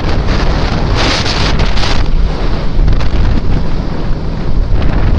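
Wind rushing over the microphone of a moving motorcycle, with low engine and road rumble from the Suzuki Gixxer SF 250 underneath. A stronger gust hits about a second in.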